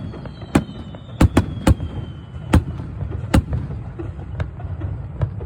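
Aerial fireworks bursting: a run of sharp bangs, about half a dozen in the first three and a half seconds, then fewer and fainter ones. Under the early bangs a faint high whistle slowly falls in pitch.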